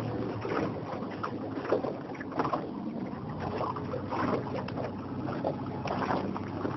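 Rowing boats moving on open water: a continuous wash of water with irregular oar splashes and knocks, over a faint steady low hum.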